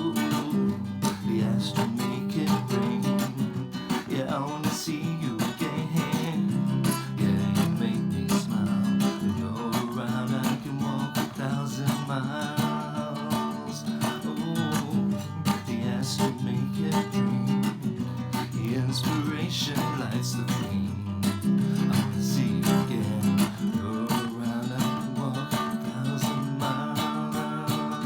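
Song music with strummed acoustic guitar.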